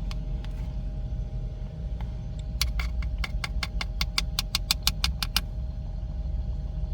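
Electric kettle bubbling at a boil, a steady low rumble. In the middle comes a quick run of sharp clicks, about five or six a second, for roughly three seconds.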